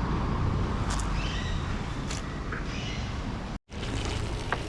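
Outdoor background noise: a steady low rumble with a few short high chirps and clicks. It drops out completely for an instant about three and a half seconds in, where the footage is cut.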